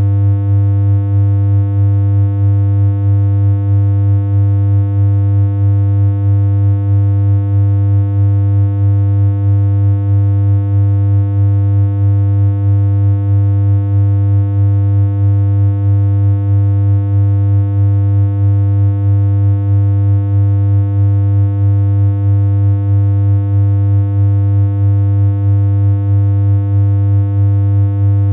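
Synthesized electronic hum: one steady, low-pitched, unchanging tone with a buzzy stack of overtones and a slight regular pulsing in level.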